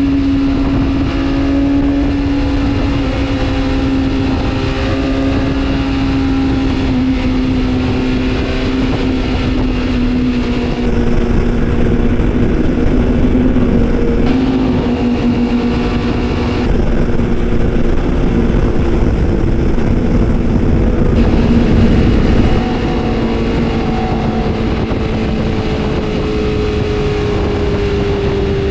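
Superbike engine running at high, steady revs, its pitch sagging slowly over the stretch, with heavy wind and road noise underneath.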